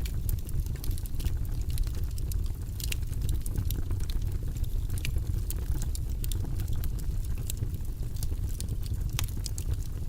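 Wood fire burning in a fireplace: a steady low rush of flames with frequent sharp crackles and pops from the burning wood.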